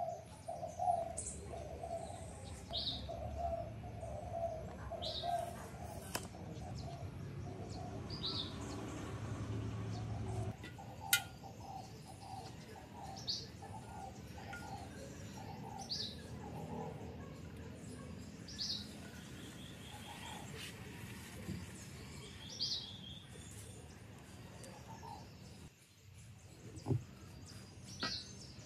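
Birds calling outdoors: a short high chirp repeated every few seconds, over runs of quicker, lower notes. A faint low rumble stops about ten seconds in, and there are a couple of light knocks.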